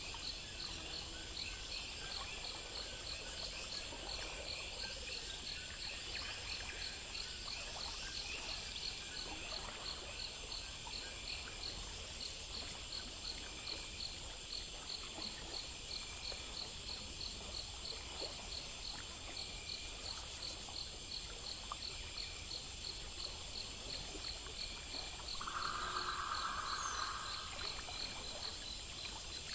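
Night insect chorus: crickets chirping in a steady, regular rhythm over a constant high-pitched insect trill, with a soft haze of background noise. Near the end a louder call of about two seconds stands out.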